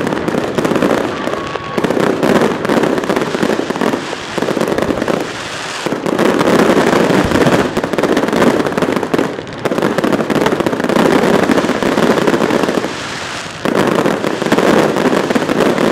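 Fireworks going off in dense, rapid crackling volleys: several runs of a few seconds each, with brief lulls between them.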